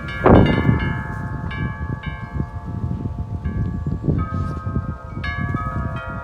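Metal wind chimes struck again and again by strong gusty wind, each strike ringing on, with wind rumbling on the microphone. A heavy gust about a third of a second in is the loudest moment.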